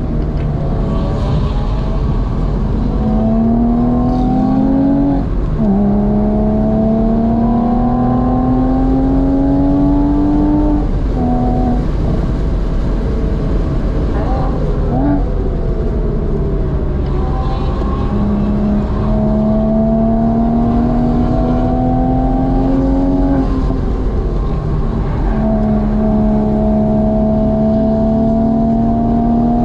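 Porsche 986 Boxster S flat-six heard from inside the cabin under hard acceleration. The engine note climbs steadily, drops back at gear changes or lifts off the throttle, and climbs again several times, over a steady rumble of road and tyre noise.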